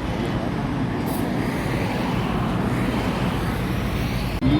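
Steady road traffic noise, cut off abruptly near the end.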